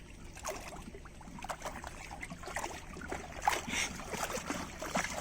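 Water splashing and sloshing around a small wooden country boat being paddled on a backwater, with irregular knocks and drips.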